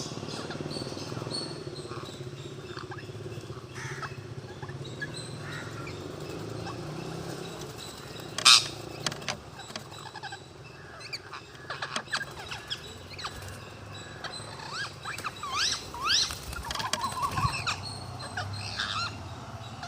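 Parrots squawking and chirping, the calls growing denser in the second half into many short rising screeches, with one loud sharp squawk about eight seconds in. A steady low hum runs underneath.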